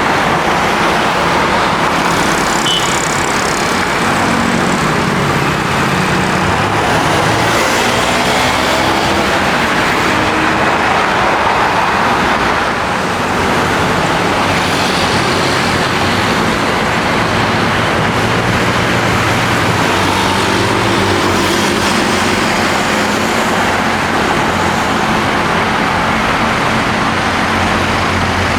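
Airbus A320-200 jet engines running loud and steady as the airliner lands, with a slowly shifting whoosh over the engine tone.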